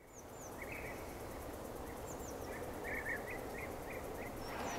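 Birds chirping over a steady background hiss of outdoor ambience. The chirps are short, with a quick run of them in the second half.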